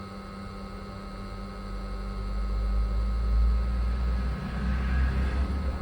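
Worcester CDI Classic gas boiler starting up in service mode: over a steady hum, a low rumble builds from about a second and a half in and holds as the boiler fires.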